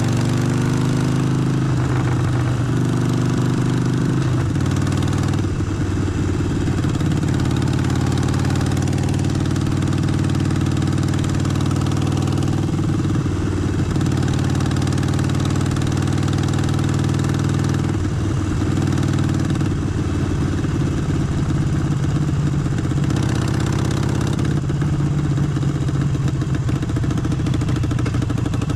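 Harley-Davidson Forty-Eight's air-cooled 1200 cc V-twin running steadily, with a few short changes in pitch every several seconds.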